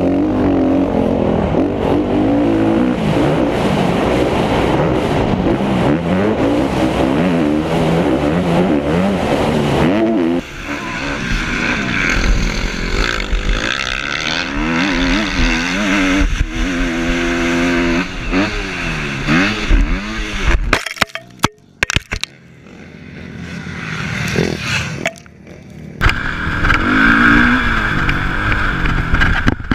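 Motorcycle engine revving, its pitch climbing and falling again and again. The sound breaks off sharply for a few moments about two-thirds of the way through, then the revving picks up again.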